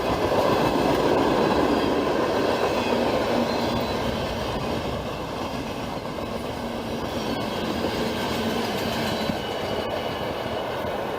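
CSX freight train rolling past close by: a steady rumble and wheel-on-rail noise from the passing cars.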